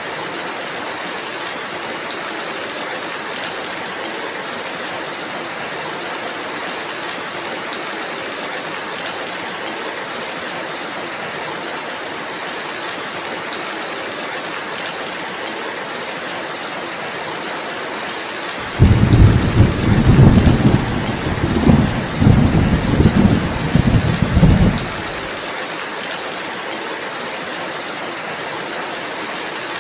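Steady rainfall, with a thunderclap about nineteen seconds in that rumbles in several swells for about six seconds and then cuts off suddenly.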